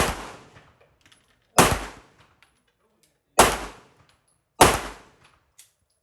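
Four pistol shots fired one at a time at an unhurried pace, roughly one to two seconds apart, each a sharp crack with a short echoing tail.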